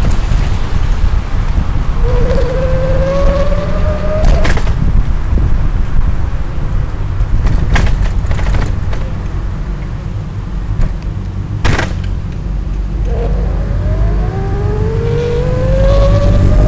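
E-bike electric motor whining and rising in pitch as the bike speeds up, twice, over a steady low rumble of riding noise. A few sharp knocks come through along the way.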